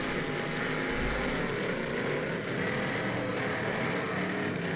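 Several demolition derby cars with their engines running and revving unevenly, mixed with steady arena noise.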